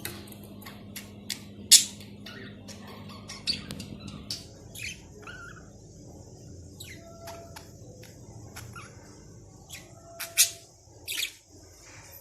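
Pet budgerigars chirping and giving short, sharp squawks at irregular intervals, the loudest calls about two seconds in and twice near the end.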